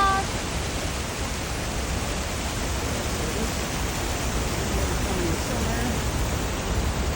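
Water rushing over a dam wall after heavy rain: a steady, unbroken wash of noise.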